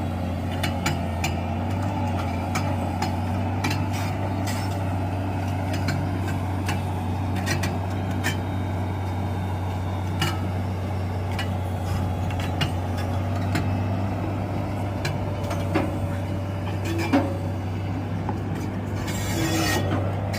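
SANY excavator with a down-the-hole (DTH) drill attachment running: a steady low engine drone with scattered sharp knocks. A burst of hissing air comes near the end.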